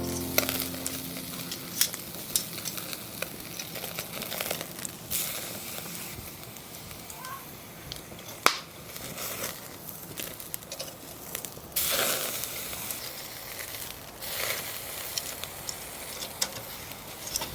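Thick beef tongue steak sizzling over charcoal on a shichirin grill, a steady hiss with scattered crackles and pops, one sharp pop about eight and a half seconds in and a few swells of louder sizzling.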